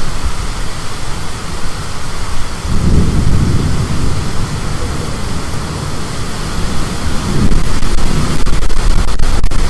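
Storm with high wind and rain: a steady rushing noise, with a deep rumble about three seconds in and the noise growing louder near the end.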